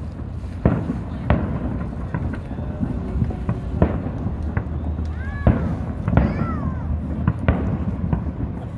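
Aerial fireworks shells bursting in a series of sharp bangs, one every second or two.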